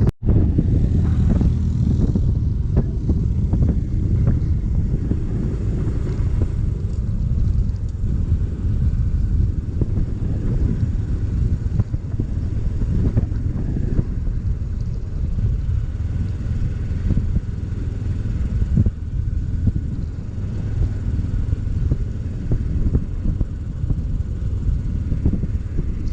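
A motorcycle being ridden along the road: the engine runs steadily under a heavy, buffeting low rumble of wind and road noise on the microphone.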